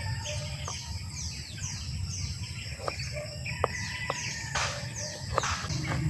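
Birds chirping: a run of quick, high, downward-sliding chirps repeated several times a second, over a low steady rumble, with a few sharp clicks.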